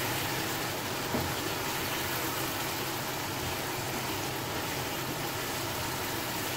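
Chicken in masala sizzling in hot oil in a wok while being stirred with a wooden spatula: a steady hiss, with one knock of the spatula about a second in. The masala is in the bhuna stage, fried down before water goes in.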